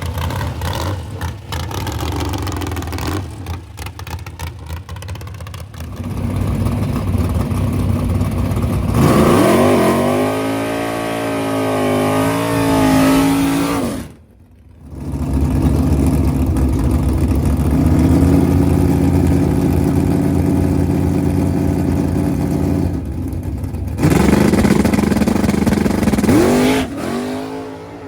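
Drag-race car engines running. One accelerates away with its pitch climbing about nine seconds in, a steadier engine note holds through the middle, and another climbs near the end. The sound drops out sharply twice.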